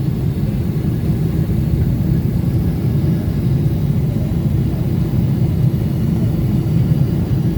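Steady low rumble of a Boeing 777 airliner's engines and airflow heard from inside the cabin during the descent to landing.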